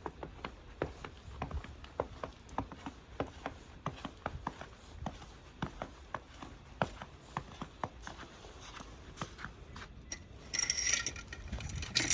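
Footsteps crunching in fresh deep snow, a steady walking pace of about two steps a second, with a brief louder hiss near the end.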